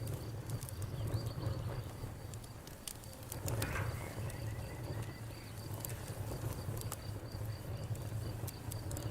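Campfire crackling, with scattered sharp pops over a low steady rumble of the burning, while a cricket chirps in an even, rapid pulse.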